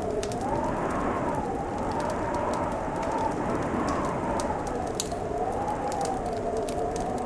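Fireplace crackling with many small sharp pops, over a steady wintry wind whose whistle wavers slowly up and down in pitch.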